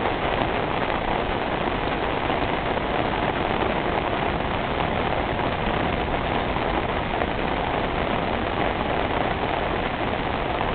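Steady, heavy rain falling on a flooded street, a constant even hiss of rain on standing water and pavement with no change in strength.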